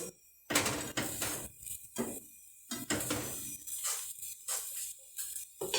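Spatula scraping and knocking against a frying pan in several short, irregular bursts as a fried corn cake is lifted out of the pan.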